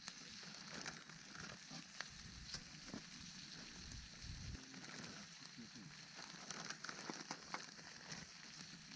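Campfire cooking: faint crackling and sizzling, with scattered sharp pops over a steady hiss.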